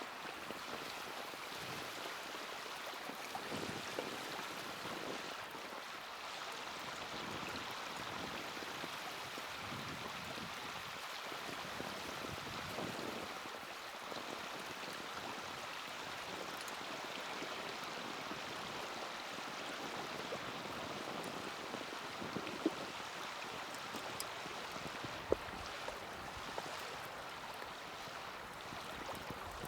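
Small wood campfire burning with a steady rushing hiss, broken now and then by sharp crackles, two standing out near the end.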